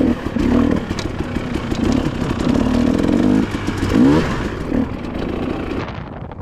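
Dirt bike engine running while riding, coming on and off the throttle in spurts, with a rising rev about four seconds in.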